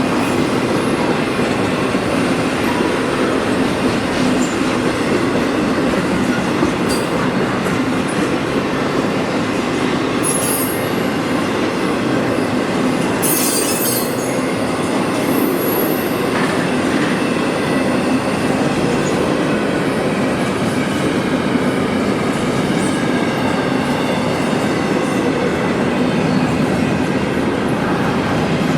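CSX freight train's cars rolling past with steady wheel-on-rail noise, with two brief high-pitched wheel screeches about ten and thirteen seconds in.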